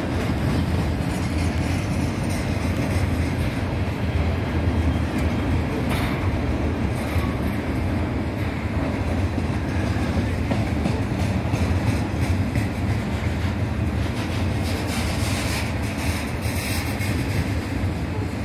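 Double-stack container cars of a Norfolk Southern intermodal freight train rolling past on steel rails: a steady wheel-on-rail rumble with clickety-clack, and a few brief sharper clatters about six seconds in and again near the end.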